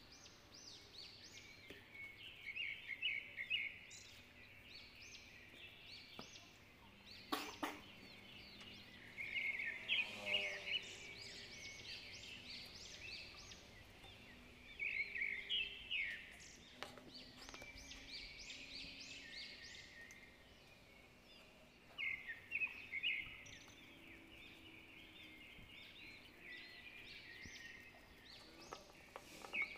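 Birds chirping in bursts of quick, high notes every few seconds, with a single sharp click about seven seconds in.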